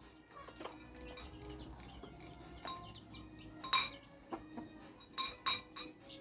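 Silver Laced Wyandotte chicks and a hen pecking cooked fish from a dish: their beaks strike it in irregular sharp clinks and taps, the loudest one about midway and two more close together near the end.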